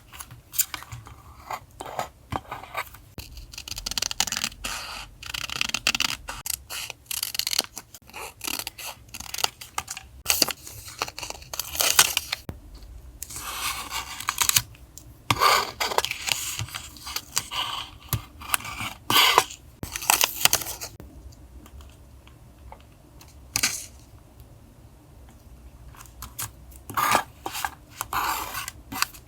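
Paper and sticker handling during journal collage work: irregular rustling and crinkling, with peeling, scratching and short clicks and taps. A low steady hum runs underneath.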